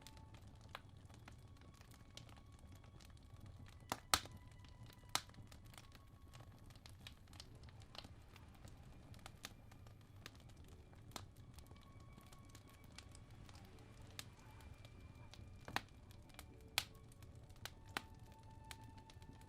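Wood fire in a fireplace crackling, with irregular sharp pops and snaps over a low steady rumble. Faint soft violin music sustains long notes in the background.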